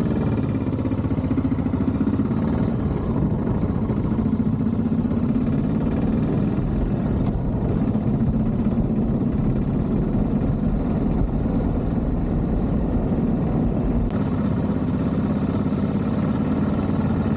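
Yamaha motorcycle engine running steadily as the bike is ridden.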